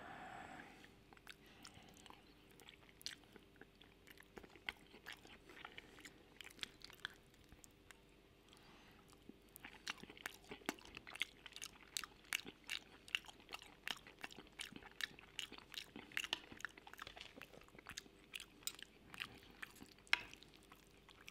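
Close-miked chewing of creamy mushroom pasta: a stream of soft, wet mouth clicks and smacks, sparse for a few seconds before the middle and thicker from about halfway through.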